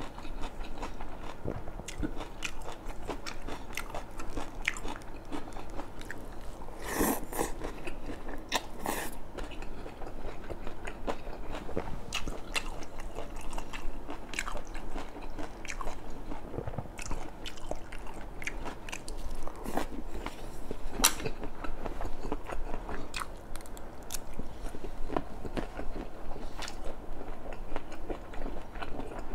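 A man chewing and biting mouthfuls of satay-stir-fried squid close to the microphone: a stream of small wet clicks and smacks, with a couple of louder bites about seven and nine seconds in.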